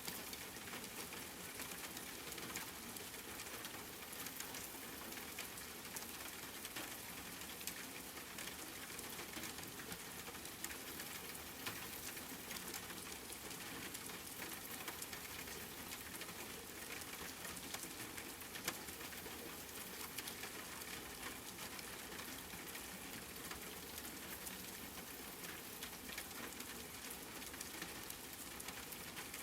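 Steady rain falling, an even hiss made of many small drop impacts.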